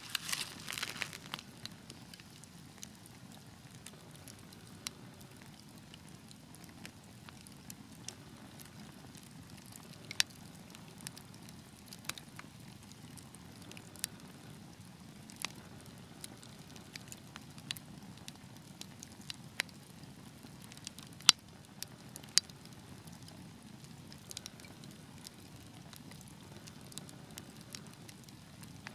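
Fire in a fireplace crackling over a steady low rumble of flame. There is a quick flurry of crackles at the start, then scattered sharp pops, with a few louder ones about ten seconds in and again past twenty seconds.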